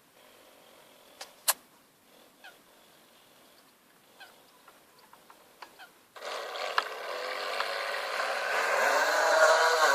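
Electric drive motor of an RC model yacht starting about six seconds in: a whining hum that grows louder and rises in pitch as it speeds up. A few sharp clicks come before it.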